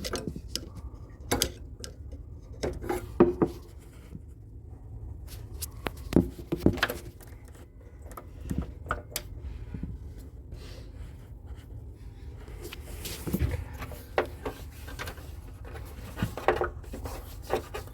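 Irregular knocks, clinks and rubbing of hand tools and metal parts being handled, over a steady low hum.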